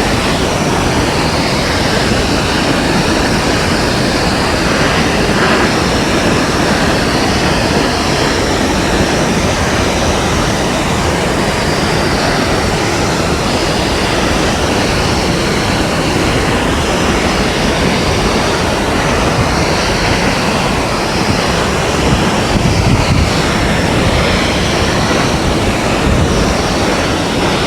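Steady, loud rushing of a tall waterfall, Multnomah Falls, crashing into its pool.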